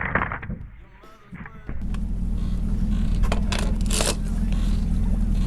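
A boat's engine running steadily, with a low hum and some hiss; it comes in suddenly about two seconds in. A few sharp knocks are heard near the middle.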